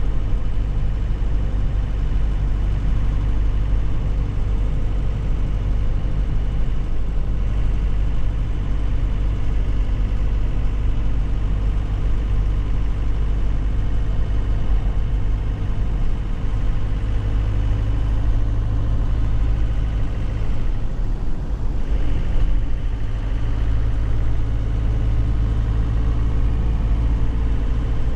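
Engine of a 2001 Nissan Cabstar light truck running steadily while driving, a low hum with road noise. It drops briefly about twenty seconds in, then picks up again.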